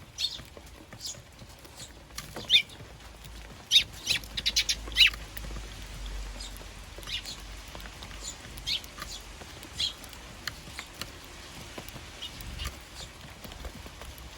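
Eurasian tree sparrows chirping in short, scattered calls, with a quick run of chirps about four to five seconds in.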